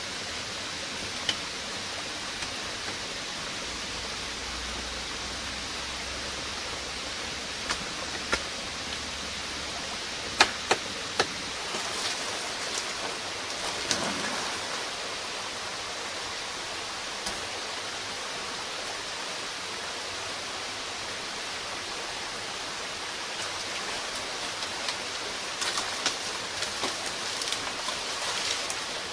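Steady rushing of flowing water, like a stream, with scattered sharp knocks. A run of small clatters comes about halfway through and again near the end.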